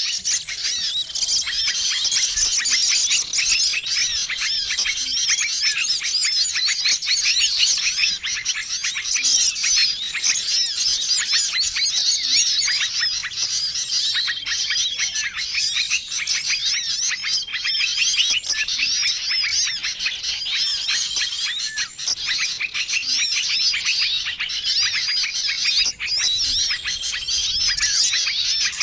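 Dense, unbroken chattering of many small songbirds, with chirps and twitters overlapping, and a short held whistle that returns every few seconds. It is a mixed bird-lure recording of small-bird calls, used to draw wild small birds in.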